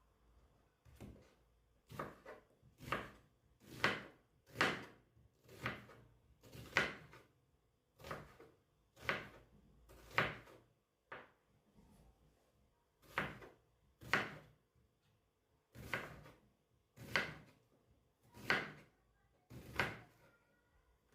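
A steady run of short, repeated strokes of the same kind, about one and a half a second, like hand work such as chopping or rubbing on a hard surface.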